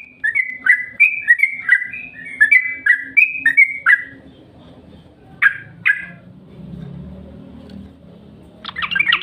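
Trucukan (yellow-vented bulbul) singing: a phrase of about ten quick, bubbly notes alternating up and down in pitch, a pause with two single notes, then a faster run of notes near the end.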